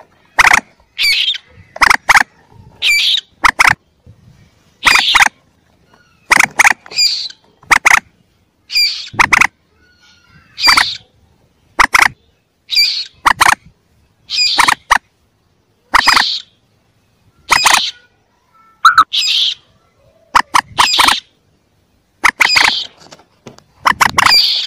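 Common moorhen chicks calling: short, high calls repeated about once a second, some in quick pairs, played as a hunter's lure.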